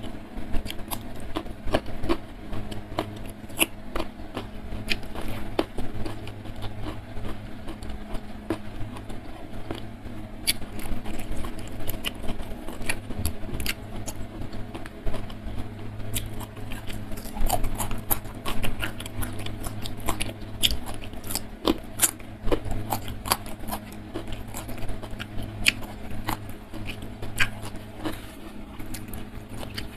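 Close-miked eating: chewing, wet mouth smacks and clicks at irregular intervals as a person eats rice and side dishes by hand, over a steady low hum.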